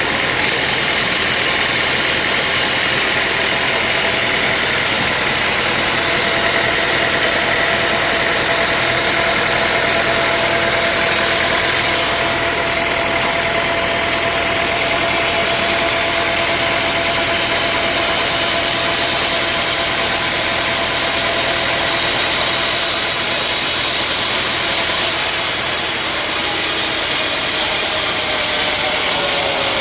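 Sawmill machinery running steadily, a loud continuous engine-driven hum whose pitch dips slightly near the end.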